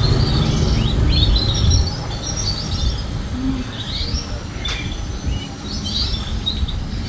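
Canary singing in short trilled, chirping phrases, one after another. A low rumble sits under the song for about the first two seconds, then drops away.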